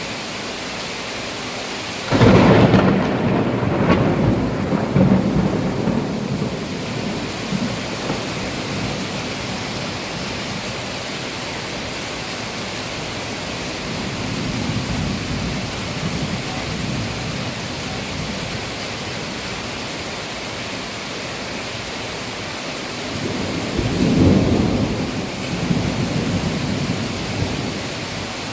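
Steady rain with thunder. A sudden loud clap about two seconds in rolls on for several seconds, and a second, weaker rumble comes near the end.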